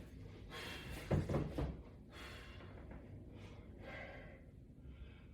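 A man breathing hard in short, forceful breaths, about one a second, the strongest about a second in.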